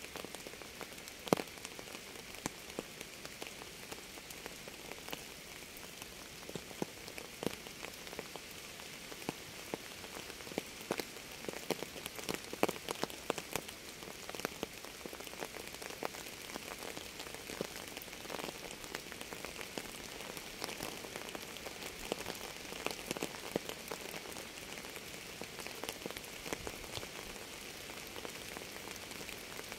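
Steady rain falling: an even hiss with many separate drops tapping on a hard surface.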